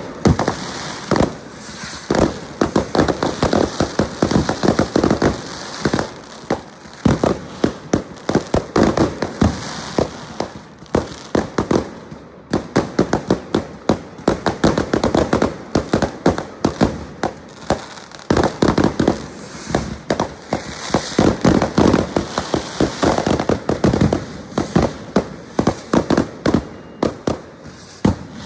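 Fireworks going off nonstop: many sharp bangs and crackles in rapid, irregular succession, with denser clusters every few seconds.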